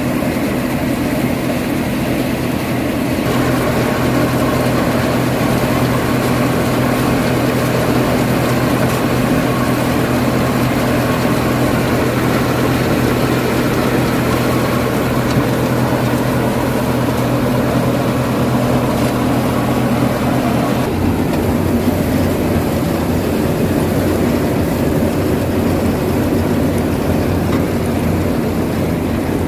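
Farmtrac 45 tractor's diesel engine running steadily under load while driving a basket-model thresher, a loud continuous mechanical hum and rattle. The pitch of the hum shifts slightly a few seconds in and again about two-thirds of the way through.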